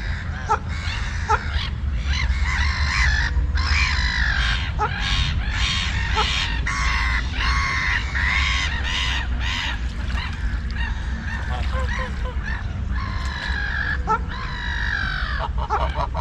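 A flock of waterfowl calling: many overlapping honking calls, thick for most of the stretch and thinning out around 10 to 13 seconds in. A steady low rumble runs underneath.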